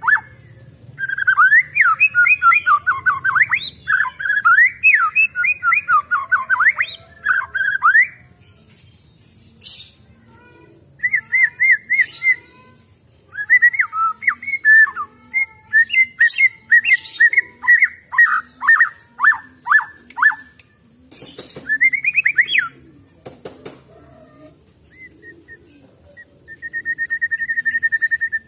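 White-rumped shama (murai batu) singing: bursts of rapid, fast-repeated whistled notes broken by pauses, with a few sharp clicks, and a steady held whistle near the end.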